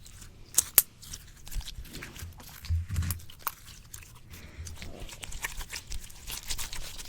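Slime being squished and pressed against a microphone: irregular sticky, wet crackles and pops, with two sharp pops a little under a second in.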